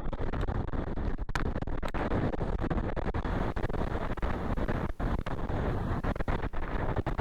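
Strong wind of about 40 to 50 mph buffeting the microphone, a heavy low rumble that rises and falls in gusts.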